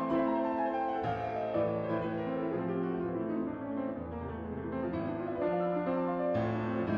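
Background piano music: a run of notes falling in pitch at the start, then sustained chords.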